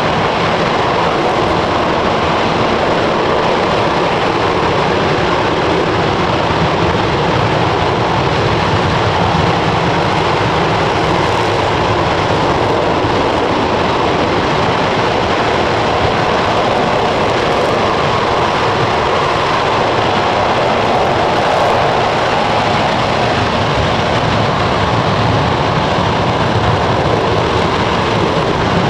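RS-25 rocket engine, a liquid-hydrogen and liquid-oxygen former Space Shuttle main engine, firing steadily during a full-duration test burn: a loud, even rushing noise that does not change.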